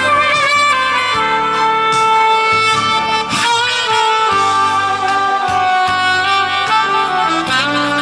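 A wind instrument playing a slow melody of long held notes with vibrato, over a backing track with a moving bass line.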